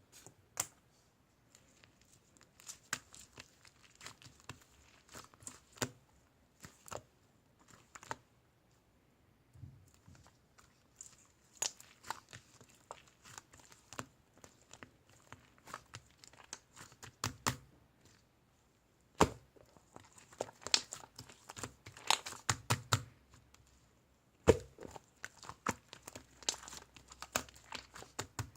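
Grey marbled slime being squeezed and stretched by hand, giving irregular sharp pops and crackles in dense clusters broken by short pauses.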